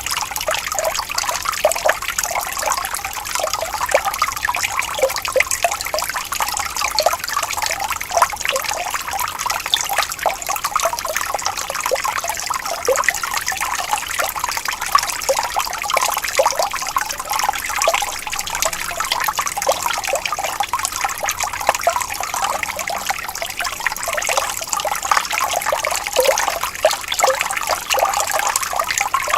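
Water flowing and trickling gently, a steady burbling with small bubbling splashes.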